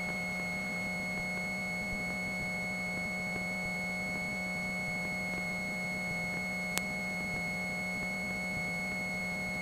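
Steady hum with a thin, high, constant whine on the Cessna 172's cockpit intercom audio, with one brief click about seven seconds in.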